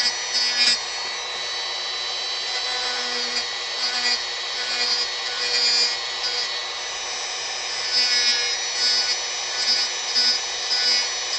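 Dremel rotary tool running with a steady high whine, its bit grinding into wood in a series of short strokes.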